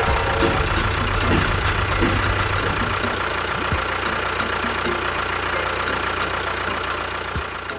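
A small motor running steadily, with a constant whine and a faint regular ticking.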